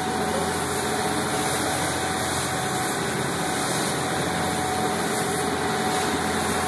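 Boat engine running steadily: an unchanging drone with a constant hum under it.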